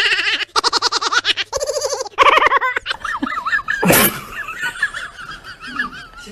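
A person laughing hard in quick pulsing bursts for about three seconds, then quieter high, wavering squeaks, with a sharp knock about four seconds in.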